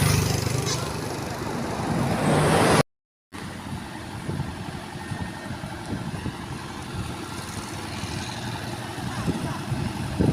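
Heavy truck diesel engine working hard on a muddy climb, growing louder over the first few seconds, then cut off abruptly. After a short gap comes a quieter stretch of distant engine noise with scattered knocks.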